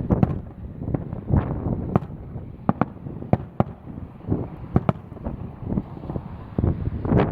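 Aerial fireworks going off, a string of sharp bangs and cracks at uneven intervals, several close together. Wind buffets the microphone underneath with a low rumble.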